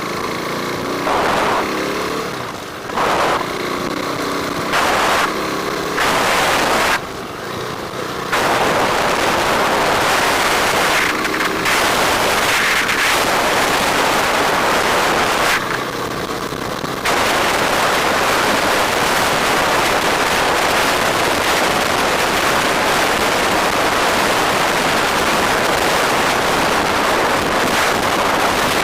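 Riding noise from a moving motorcycle: wind rushing over the microphone with the bike's engine underneath. The rush is choppy at first, then becomes steady about eight seconds in.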